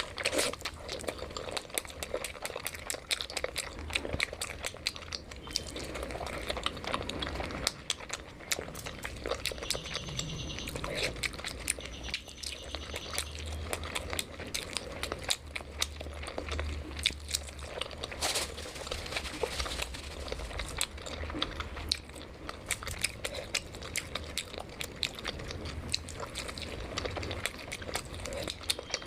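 Close-miked eating sounds: chewing and biting, with many small wet clicks and crunches throughout.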